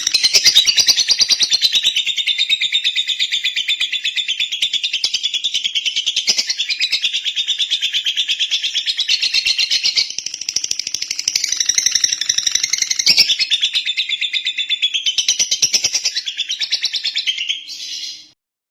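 Lovebird chattering in one long, unbroken stream of rapid, high-pitched chirps, breaking off shortly before the end.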